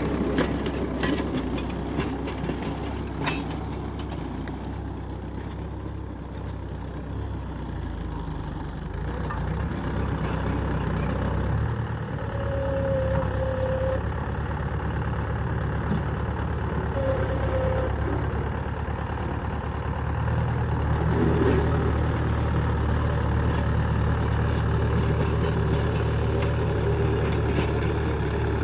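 Tractor diesel engine idling with a steady low rumble, growing louder about twelve seconds in and again around twenty seconds. Two brief faint tones sound midway.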